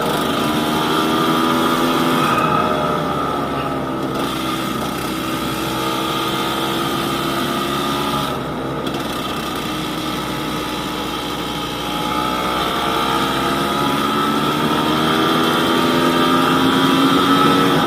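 Yamaha DT200WR's single-cylinder two-stroke engine running under way on a ride. The revs fall over the first couple of seconds, hold fairly steady with a brief dip about halfway through, then climb steadily toward the end.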